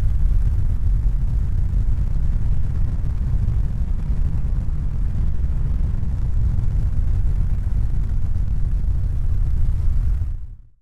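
A steady, loud, low rumbling noise with no distinct tones or knocks, fading out over the last second.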